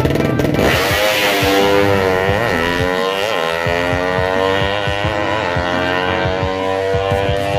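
A 200cc drag-racing motorcycle engine revving hard, held at high revs with a few quick throttle blips that make the pitch jump up and fall back.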